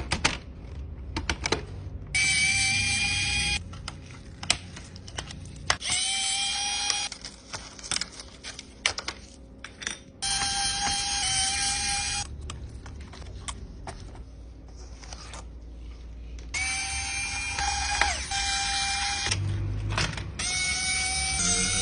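A small electric motor, like a power tool, runs in short bursts of one to two seconds at a steady pitch, starting and stopping abruptly five times, with clicks and knocks of handling between the bursts.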